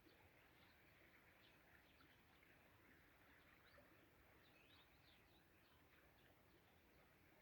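Near silence: faint outdoor ambience with many small, quick bird chirps scattered throughout.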